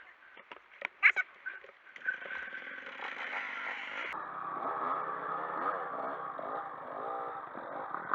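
A few short, scattered sounds, then about two seconds in a motorcycle engine starts running and revving, its pitch rising and falling again and again.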